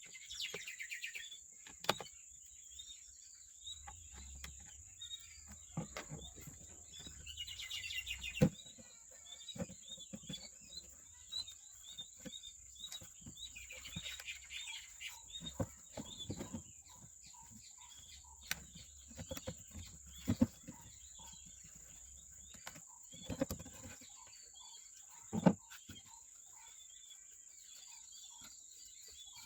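Outdoor ambience of crickets or other insects with a steady high-pitched trill, and birds chirping repeatedly. Scattered sharp clicks and knocks sound now and then.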